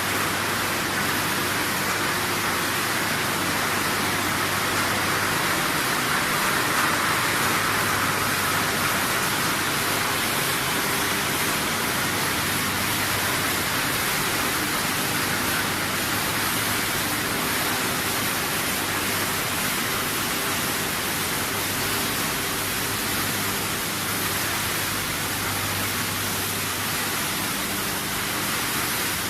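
PET bottle washing and recycling line machinery running: a steady rushing noise with a low hum underneath, unchanging throughout.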